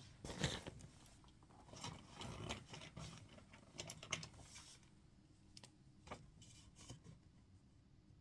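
Faint handling sounds at a study desk: scattered soft clicks and rustles, thinning to a few single clicks after about five seconds.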